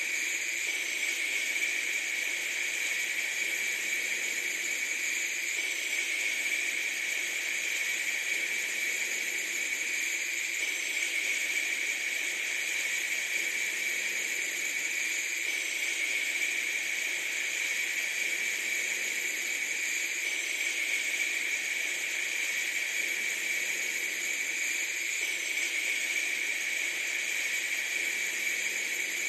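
Steady, unbroken hiss at an even level, with a faint pattern that repeats about every five seconds.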